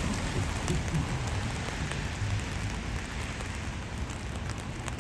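Steady rain falling, with a few sharp drop ticks and a low rumble underneath.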